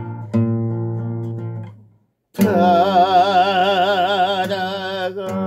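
An acoustic guitar chord is strummed and left to ring, then stops for a moment. About two and a half seconds in, a long wavering note with strong vibrato begins and is held to the end.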